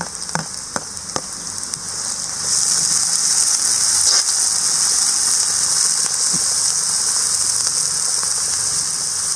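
Chopped onion, ginger, garlic and chillies sizzling in hot oil in a wok, stirred with a steel ladle. A few sharp ladle clicks in the first second or so, then the sizzle grows louder about two and a half seconds in and stays steady.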